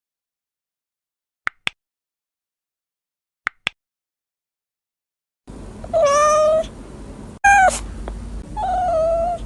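A cat meowing three times, drawn-out meows that each fall slightly in pitch, over a low background hum. Before the meows there are two pairs of short high ticks.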